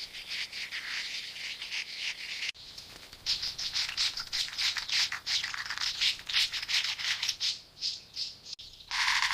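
Birds chirping in fast runs of short high-pitched chirps, cut off abruptly twice.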